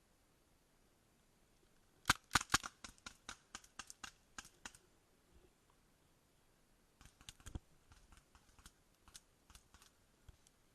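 Paintball markers firing in quick strings of sharp pops: a run of about a dozen shots starts about two seconds in, then a second, fainter run follows from about seven seconds.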